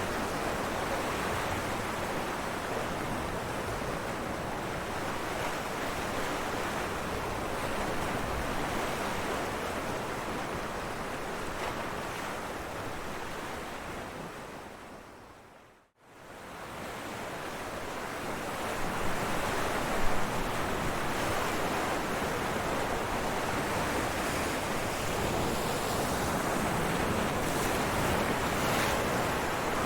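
Ocean waves crashing on rocks: a steady wash of surf that fades away to silence about halfway through, then fades back in.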